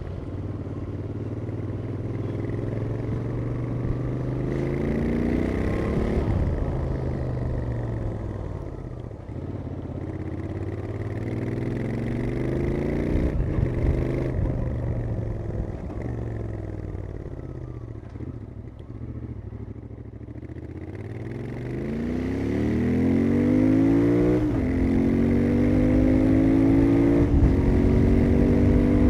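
Royal Enfield Interceptor 650's 648 cc parallel-twin engine through its stock exhaust, accelerating hard. The pitch climbs and drops back at each upshift, falls away as the rider eases off in the middle, then pulls up through the gears again near the end.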